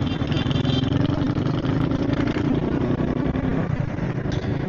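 A 70cc motorcycle's single-cylinder engine running steadily at low revs.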